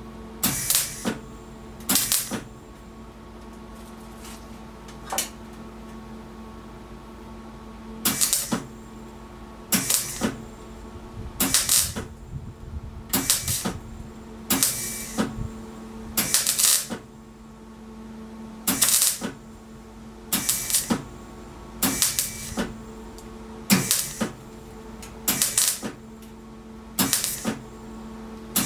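Welder laying short stitch welds on thin sheet steel: about fifteen brief crackling bursts of the arc, each around half a second, one every second or two, over a steady electrical hum. Everywhere he welds, the thin rusty metal is blowing holes.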